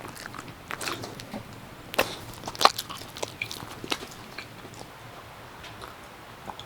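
A run of irregular crunches and clicks, loudest and densest a couple of seconds in, then thinning out to a few faint ticks.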